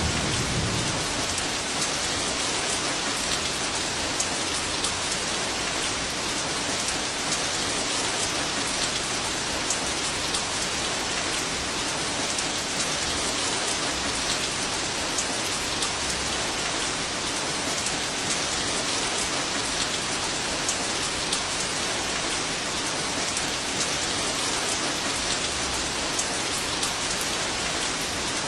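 Heavy rain falling steadily in a rainstorm, a dense even patter with occasional louder drops. The tail of a thunder rumble fades out in the first second.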